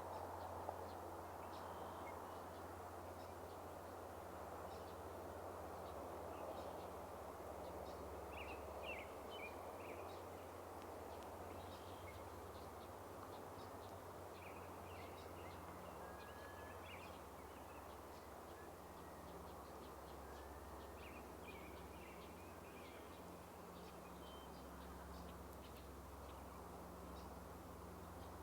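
Faint, scattered short bird chirps and calls over a steady low background rumble.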